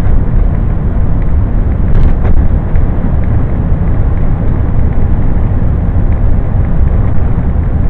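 Steady, loud rumble of a Scania truck on the move: engine, road and wind noise picked up by a small camera's microphone, overloaded and heaviest in the bass.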